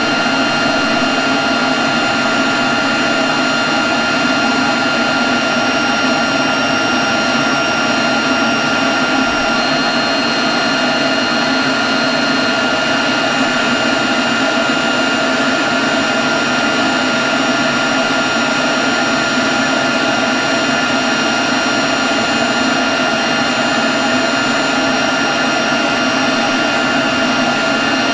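Leaf blower running steadily at constant speed: a rush of blown air with a steady high whine from the fan.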